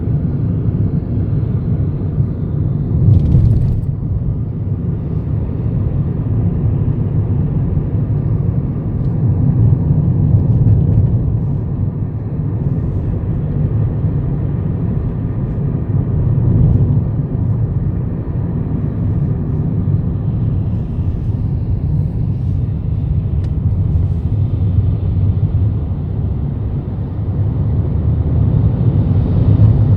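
Steady low rumble of a moving car: road and wind noise, its level swelling and easing without a break.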